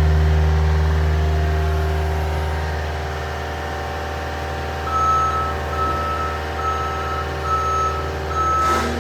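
A heavy vehicle's engine running steadily, joined about halfway through by its reversing alarm, which beeps five times at an even pace as the vehicle backs up.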